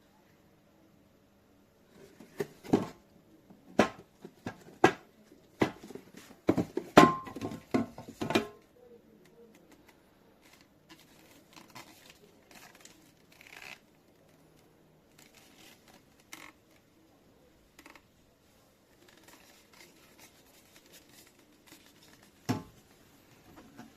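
Handling noises: a quick run of sharp clicks and knocks for several seconds, then faint rustling and a single knock near the end.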